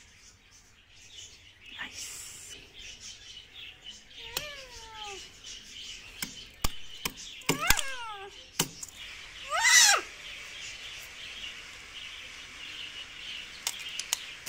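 Bird calls: several falling whistled calls, the loudest and longest a wavering one about ten seconds in, over a steady high hiss, with a handful of sharp clicks.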